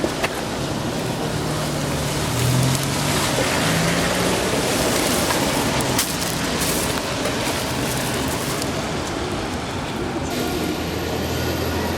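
A vehicle running, a steady rumble with a low motor tone that steps up in pitch about two to four seconds in, a couple of sharp clicks, and a high whine starting near the end.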